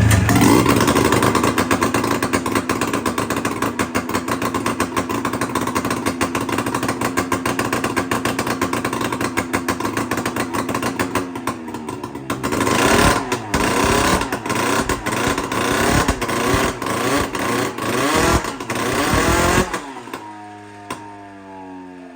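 Two-stroke snowmobile engine fitted to a go-kart, running without its full exhaust. It catches loudly at once and runs with a rapid, even rattle for about twelve seconds, then is blipped up and down in a series of revs before it cuts off near the end. Fainter falling tones remain after it stops.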